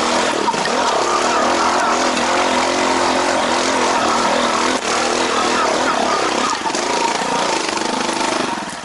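Motorcycle engine revving hard and continuously under heavy load, its pitch wavering. It drops off near the end.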